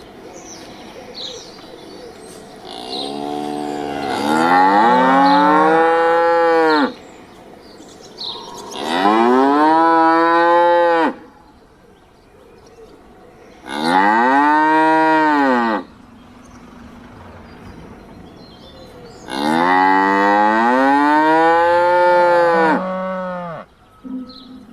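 A cow mooing four times, each moo a long drawn-out call that rises and then falls in pitch, with a few seconds' pause between calls.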